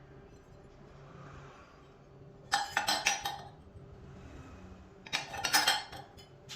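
Small metal pieces clinking and rattling against each other in two short bursts, a couple of seconds apart.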